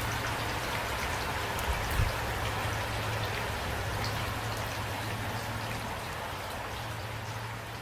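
Steady light rain falling, with a couple of louder individual drop knocks about two seconds in. The rain begins to fade slightly near the end.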